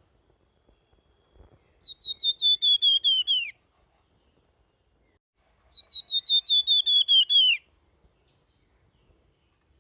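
Flamboyan songbird singing two fast, high whistled phrases, each a run of about ten quickly repeated notes lasting under two seconds and ending in a falling note. The second phrase starts about two seconds after the first ends. This is the full, flute-like "nyuling" song used as a masteran to train other birds.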